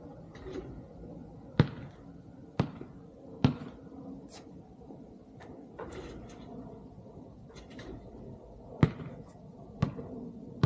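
A basketball bouncing: three bounces about a second apart, then after a pause of several seconds three more near the end.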